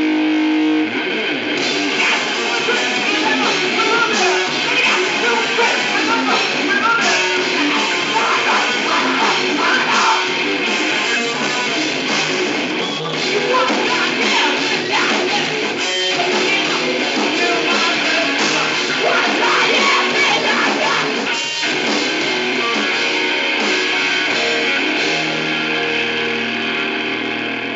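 Live rock band playing loud, dense, guitar-heavy music.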